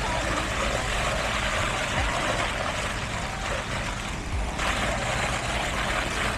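Heavy construction machinery engines running steadily, with a constant low engine hum under a broad mechanical din.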